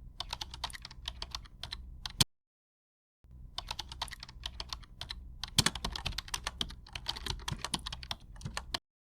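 Rapid typing on a computer keyboard, a quick run of key clicks ending on one louder keystroke, a pause of about a second, then a longer run of typing that stops near the end.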